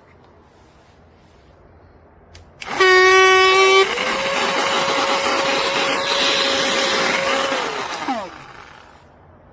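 Horsepower Duck cordless stick vacuum's motor switched on with a loud whine that steps up to a higher pitch about a second later. It runs steadily with a rush of air for about four seconds, then is switched off and winds down with a falling whine.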